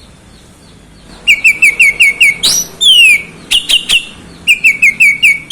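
Oriental magpie-robin (kacer) singing loudly: a quick run of about six short chirps, a loud upward sweep and a falling whistle, then a few sharp clicks, with another run of chirps starting near the end.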